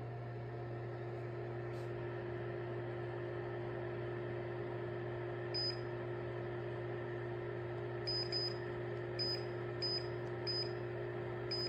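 Portable electric clothes dryer running with a steady motor-and-fan hum. About halfway through, short high electronic beeps begin, several of them at uneven intervals, like control-panel button presses.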